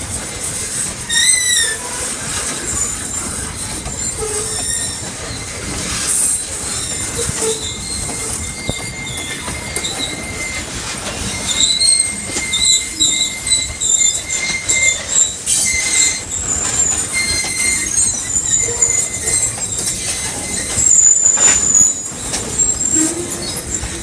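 Freight train cars rolling slowly on steel rails, their wheels squealing against the rails in thin, high-pitched, wavering tones that come and go over a steady rumble and clatter.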